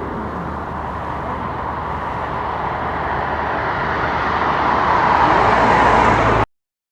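City traffic noise of a vehicle approaching, an even rushing sound that slowly swells louder over several seconds, then cuts off suddenly near the end.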